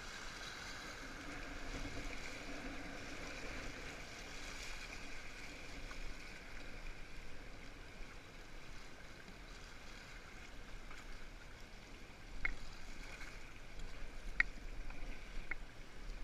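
River rapids rushing, heard muffled through a GoPro's waterproof housing. A few sharp clicks come near the end.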